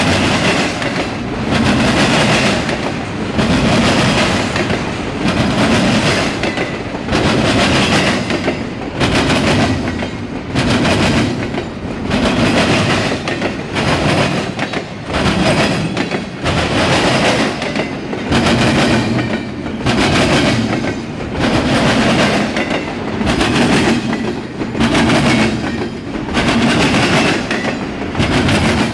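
Double-stack intermodal freight train's container well cars rolling past close by: a loud, steady wheel-on-rail rumble and clickety-clack that swells and eases about every two seconds.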